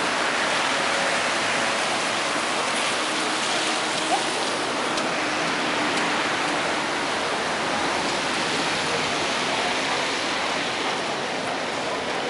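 Steady hiss of rain falling on wet paving stones.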